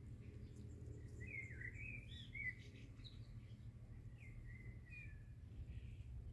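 Faint bird chirps over a low, steady outdoor rumble: a quick run of wavering chirps about a second in, and another around four seconds in.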